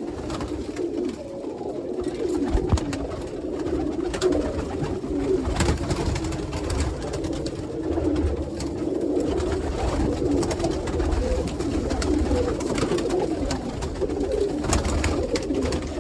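A loft full of domestic pigeons cooing together, many birds' calls overlapping into a steady murmur, with scattered sharp clicks among them.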